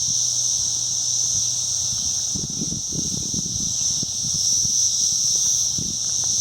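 Chorus of cicadas: a steady, high-pitched buzz from many insects at once, early in their emergence. A low rumble on the microphone comes and goes about two to four seconds in.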